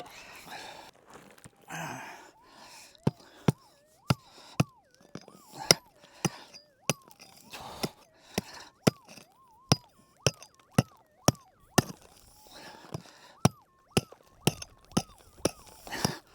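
Digging tool striking hard-packed caliche and conglomerate rock, sharp chopping blows about two a second, starting a few seconds in, with some scraping of loose dirt before.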